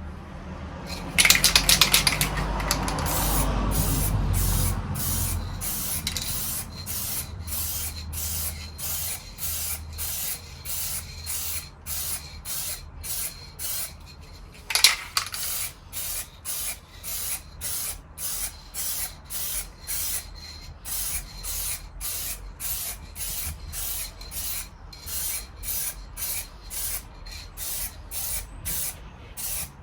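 Aerosol spray can of silver paint spraying a light colour coat, with one longer, louder pass near the start and then short hissing bursts at about one and a half a second. There is one sharper, louder burst about halfway through.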